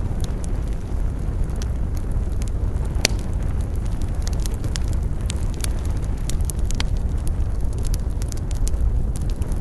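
Campfire burning, with frequent sharp crackles and pops of burning wood over a steady low rumble.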